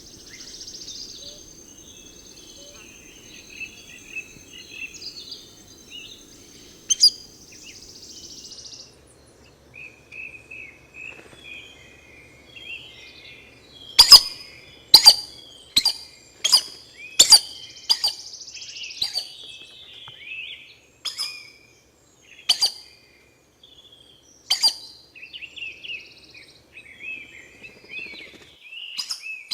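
Wild birds calling, with scattered high chirps. Partway through comes a run of about ten sharp, loud, clicking notes at roughly one a second. A steady high tone runs through the first several seconds.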